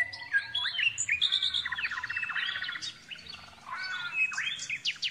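Songbirds singing: a varied run of quick whistled chirps that slide up and down, with a fast trill of repeated notes about two seconds in and a short lull before more song near the end.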